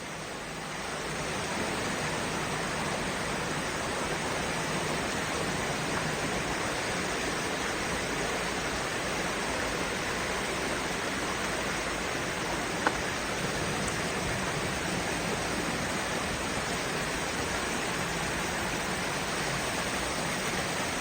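Steady rushing of creek water, a full, even noise that builds over the first second or so and then holds. One brief sharp click about thirteen seconds in.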